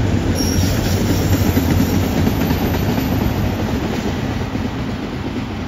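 Freight train of autorack cars rolling past: steady rumble and clatter of steel wheels on the rails, easing off slightly toward the end.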